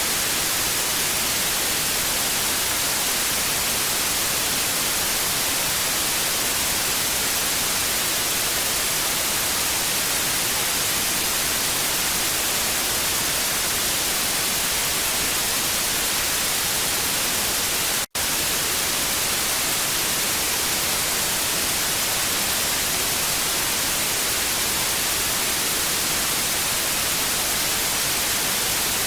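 Steady, treble-heavy hiss of analogue TV static, broken once by a split-second dropout about eighteen seconds in.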